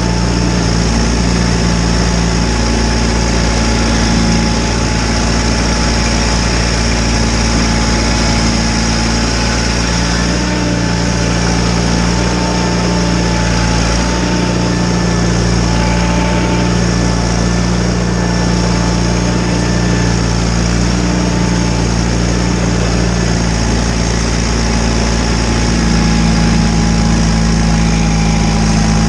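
John Deere 318 garden tractor's Onan two-cylinder engine running steadily, with a thin steady whine above the engine note.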